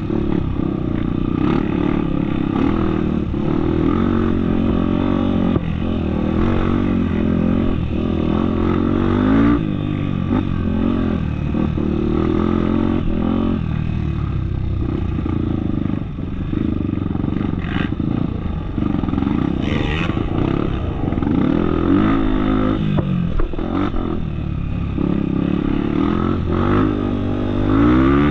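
Off-road trail motorcycle engine running under changing throttle, its pitch rising and falling again and again, with rattles and knocks from the bike over rough ground.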